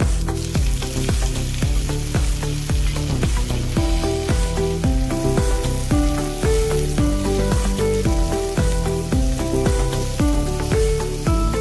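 Chopped tomatoes and onions sizzling as they fry in oil in a frying pan, stirred with a wooden spatula. Background music with a steady beat plays over it.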